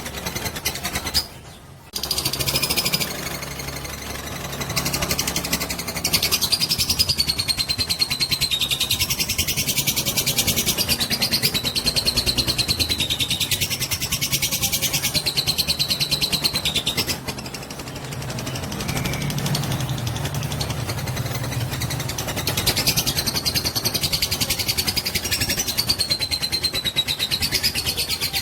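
Fighter lovebird giving a long ngekek: a fast, unbroken chattering trill of high, wavering notes, the prized long-duration song used as a lure recording to set other lovebirds singing. It breaks off briefly about a second in and dips for a moment past the middle.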